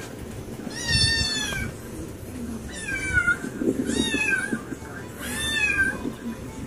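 A cat meowing four times, high-pitched calls that each slide down in pitch.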